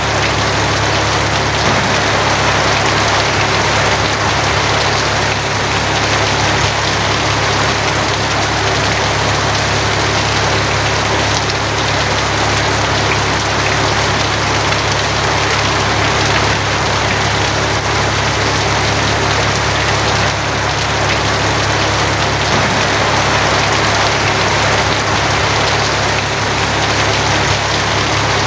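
Steady heavy rain drumming on a tin roof, a dense even patter with no thunder claps. A constant low drone runs underneath.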